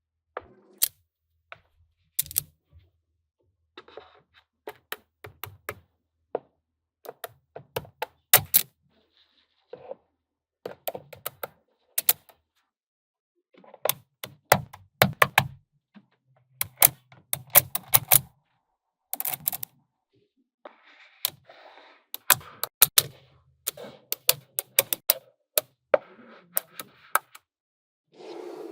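Small magnetic balls clicking and snapping together in irregular clusters of sharp clicks, with short pauses and some softer rattling between, as pieces are fitted onto the model.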